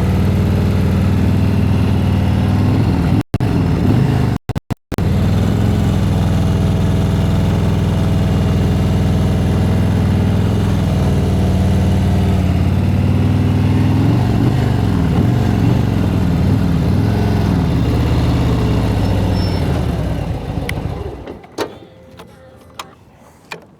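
Motorcycle engine running at low revs in first gear through a slow cone weave, its pitch rising and falling a little with the throttle. The sound cuts out completely twice, about three and four-and-a-half seconds in. It dies away near the end, followed by a few faint clicks.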